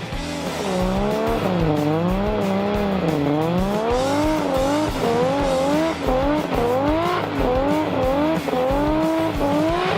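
Rally car engine revving hard, its pitch climbing and dropping again about every half second as the car is driven at speed, with tyre noise underneath.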